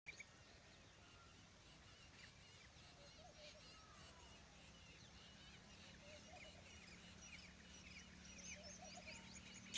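Faint chorus of many small birds chirping, the short calls growing busier toward the end, over a low steady hum.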